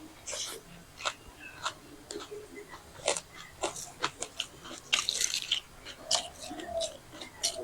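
People eating with their mouths close to the microphone: steady chewing with many short, sharp crunches, as of fried snacks or raw onion being bitten. There is a denser crackly stretch about five seconds in.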